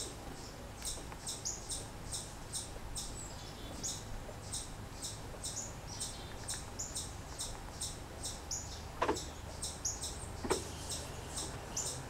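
Small birds chirping in a steady series of short, high notes, about two or three a second. Near the end come a few sharp taps.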